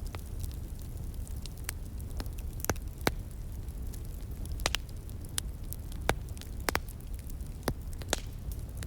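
Wood fire crackling, with irregular sharp pops scattered through a steady low rumble.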